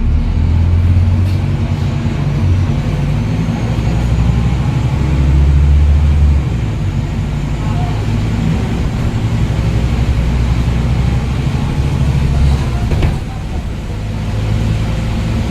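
Scania N230UD double-decker bus's diesel engine running under load. Its low note shifts in steps, is loudest about five to six seconds in, and eases off about thirteen seconds in.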